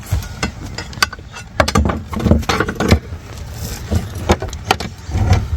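Irregular knocking, rattling and clicking as a stuck piece of the boat is wiggled up and down and pulled to work it loose.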